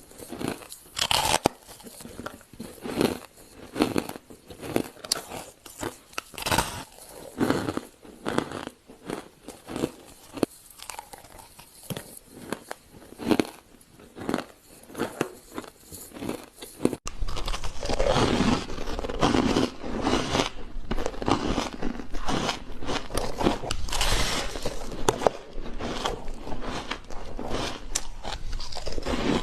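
Ice being bitten and crunched close to the microphone, with irregular sharp crunches. About two-thirds of the way in, the crunching turns louder and denser, over a low hum.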